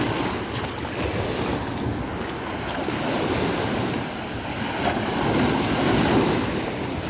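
Heavy sea surf breaking and rushing on a beach, swelling louder about five to six seconds in, with wind buffeting the microphone.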